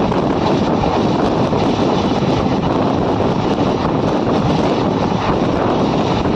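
Steady rumble and rushing air of an express passenger train running, heard at an open coach window.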